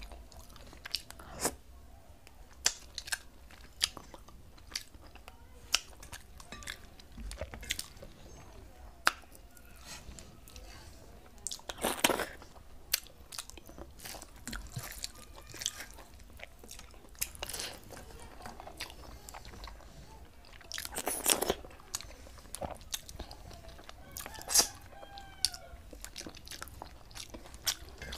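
Close-miked chewing and mouth sounds of a person eating rice and fish curry by hand: frequent small wet clicks and smacks, with two louder, longer mouth noises about twelve and twenty-one seconds in.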